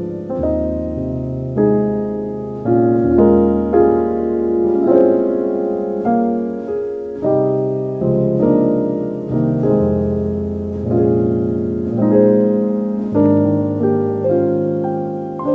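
Slow, soft solo piano music: sustained chords and single notes struck about every second or so, each note ringing and fading.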